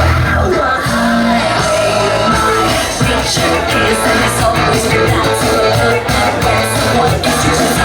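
A rock band playing live, with drums, bass and guitars, and a singer's voice over them, partly shouted.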